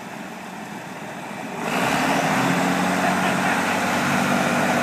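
Tractor engines running, then about a second and a half in they throttle up and become much louder, holding a steady heavy pull under load.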